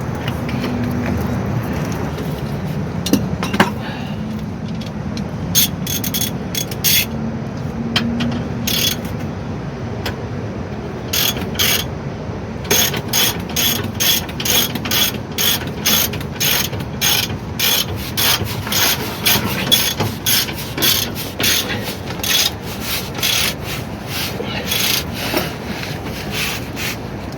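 Hand ratchet wrench clicking as a shock mounting bolt is turned by hand: a few scattered clicks at first, then steady clicking of about two a second from about halfway through.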